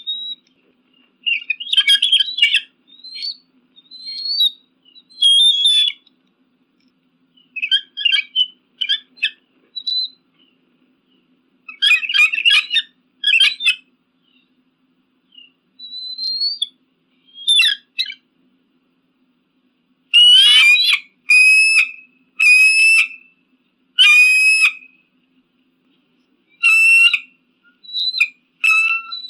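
Eagle calling: high, thin whistled calls and chattering notes in irregular bursts. About two-thirds of the way through comes a run of about five calls, one a second.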